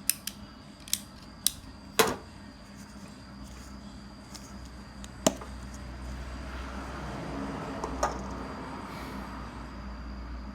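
Sharp clicks and taps of small hard objects being handled, about six in all, the loudest about two seconds in, followed from about six seconds by a soft scraping.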